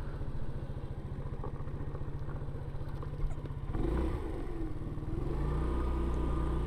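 Yamaha Vino 125 scooter's single-cylinder engine running with an even low putter, then louder and slightly higher as the throttle opens about four seconds in.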